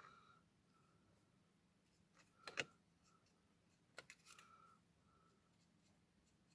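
Near silence, with a few faint small clicks: a pair about two and a half seconds in and a short cluster about four seconds in.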